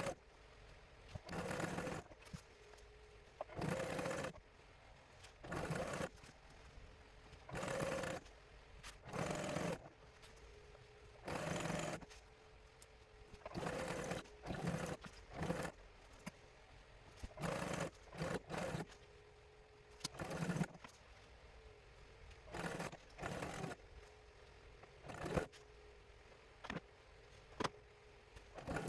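Sewing machine stitching narrow binding through a binding presser foot, running in many short spurts of a second or less with pauses between. A faint steady hum holds under the pauses.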